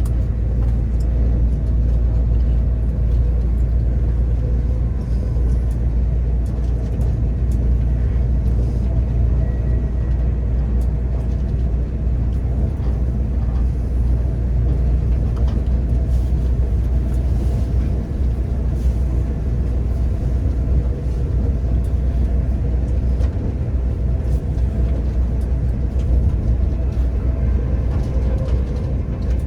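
Passenger train running along the line: a steady, loud low rumble with a faint steady hum above it.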